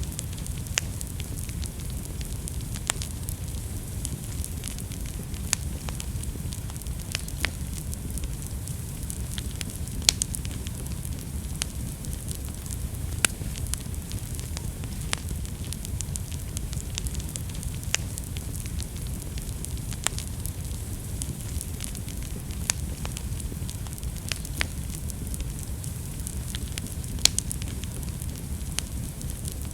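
Wood fire burning in a fireplace: a steady low rumble and hiss with sharp crackles and pops at irregular intervals, every second or two.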